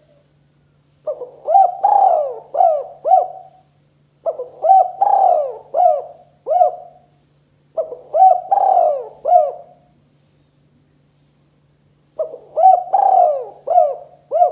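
A spotted dove (tekukur) cooing its 'kuk 2' song: four phrases, each a quick run of four or five rising-and-falling coos, spaced about three seconds apart. The last phrase is cut off at the end. A faint steady low hum lies underneath.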